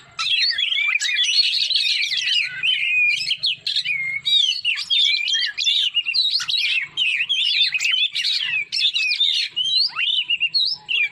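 Songbird singing a continuous, rapidly varied warbling song of quick whistled notes and pitch glides, without a break.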